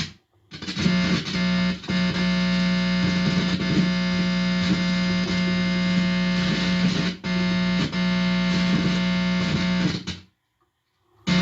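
Guitar amplifier buzzing through a guitar cable held against a man's head: a loud steady hum with a long row of overtones. It cuts out briefly a few times and drops to silence for about a second near the end. The man takes the buzz for radio-frequency 'speech ripples' aimed at him.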